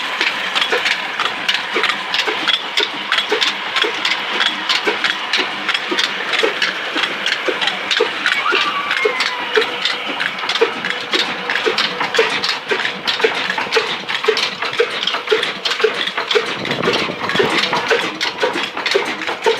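Ruston class HR diesel engine running steadily while driving a turbine: a dense mechanical clatter with a regular beat of sharp knocks about one and a half times a second.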